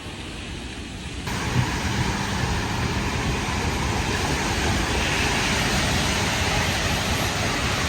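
Severe thunderstorm wind and heavy rain: steady rushing noise with low rumbling wind buffeting on the microphone, turning suddenly louder about a second in.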